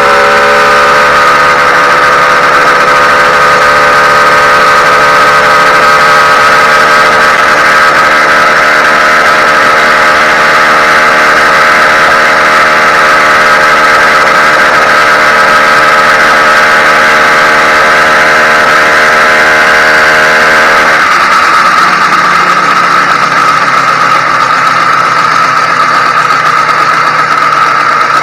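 Newly ported YD100 two-stroke bicycle engine running during its break-in, holding a steady fairly high speed and then dropping to a lower, slower idle about 21 seconds in.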